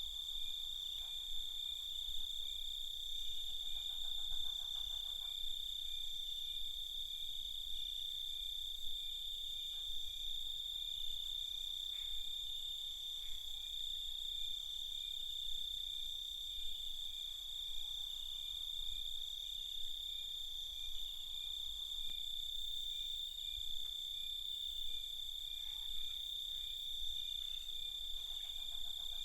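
Night chorus of crickets: a steady, high continuous trill with fainter pulsing chirps layered around it, and a few brief lower calls now and then.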